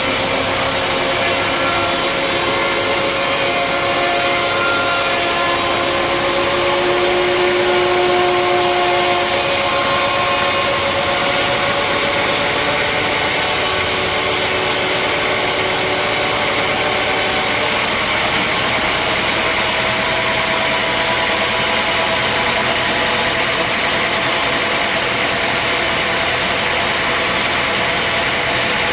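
Sawmill machinery running steadily: a continuous mechanical din with a few held whining tones that drift slowly in pitch.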